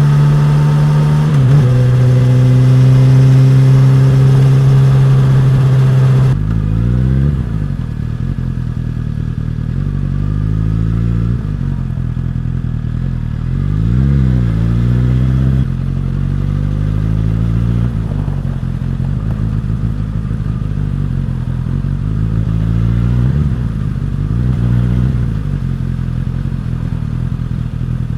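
Suzuki GSX-S1000's inline-four engine and exhaust while riding. It holds a steady, loud note for about six seconds, then switches abruptly to lower, quieter running, with the revs rising and falling several times.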